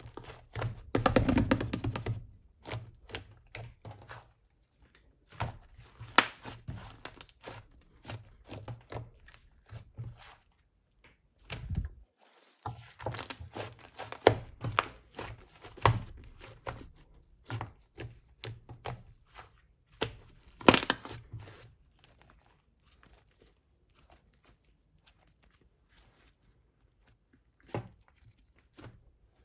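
'Egg soufflé' slime being squeezed, poked and stretched by hand, giving runs of crackling, popping and crinkling. The longest, loudest run comes about a second in, and there is a quiet spell of several seconds near the end.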